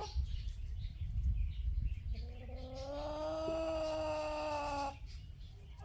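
An animal's long, drawn-out call, held steady for about three seconds, over a low rumble.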